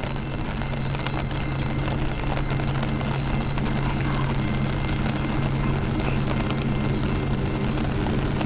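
Loram rail grinder at work: a steady drone from its engines over a dense rushing noise from the grinding stones on the rail, slowly growing louder.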